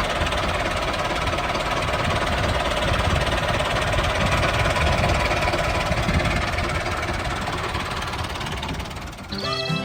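Small engine of a handmade miniature tractor running steadily with a rough, knocking beat; it fades out near the end as music begins.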